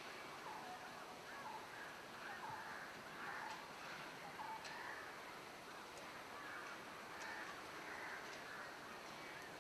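Birds calling, many short calls repeating over and over.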